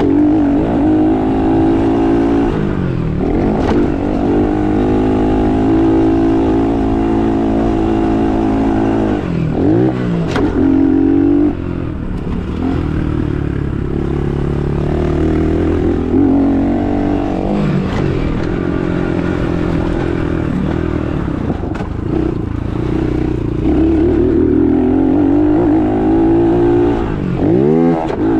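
Dirt bike engine running hard, its pitch climbing and falling again and again as the throttle is opened and closed, with sharp drops and re-climbs about ten seconds in and again near the end.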